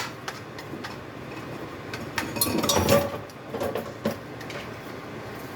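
Cooking utensil clinking and scraping against a pot or pan, with scattered sharp knocks and a busier stretch of clatter near the middle.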